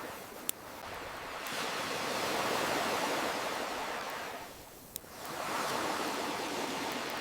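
Ocean waves washing in and drawing back, one long surge and then a second swell after a lull about five seconds in. A fire gives two sharp crackling pops, one early and one during the lull.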